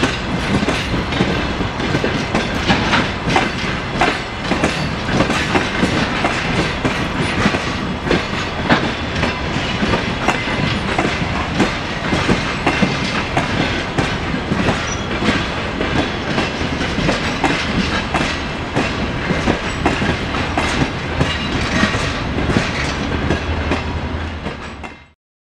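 Passenger train coaches rolling past, their wheels clattering over the rail joints in a steady clickety-clack. The sound cuts off suddenly near the end.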